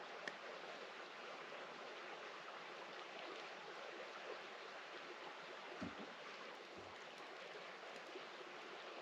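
Campfire burning with a steady soft hiss and a few faint crackles and pops, and two soft low thumps about two-thirds of the way through.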